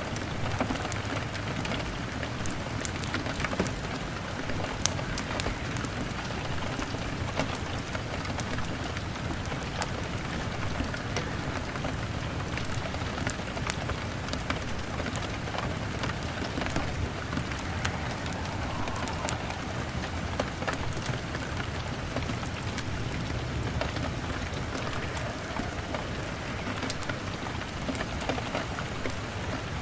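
Steady rain falling on a window, with the scattered sharp crackles of a burning log fire mixed in.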